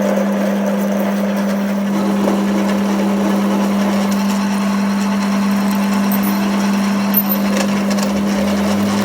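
A workshop machine running with a steady, constant hum, with a rough scraping noise over it and a single sharp click about seven seconds in.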